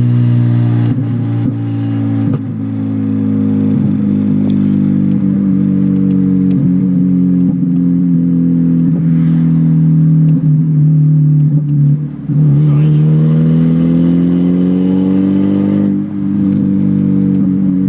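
Mazda 323 engine running with no mufflers, a loud steady drone. Its pitch sags slowly, dips briefly about two-thirds in, then climbs for a few seconds as it revs up before levelling off.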